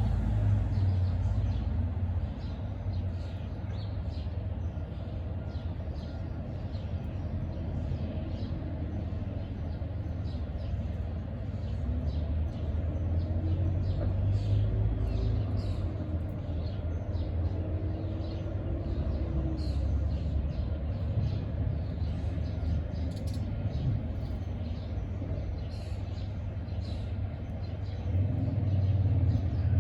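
Small birds chirping many times in quick short calls over a steady low rumble, with a faint wavering hum in the middle.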